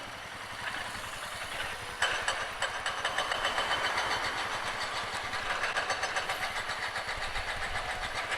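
Motorcycle engine running under way, getting louder about two seconds in and then pulsing evenly several times a second.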